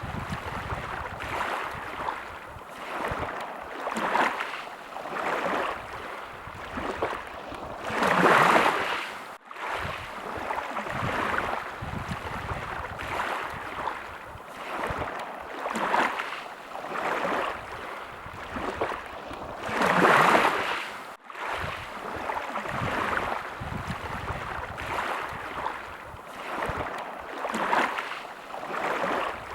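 Small sea waves washing ashore, the hiss swelling and ebbing about every two seconds, with two larger waves about eight and twenty seconds in. Each larger wave is followed by a brief drop-out.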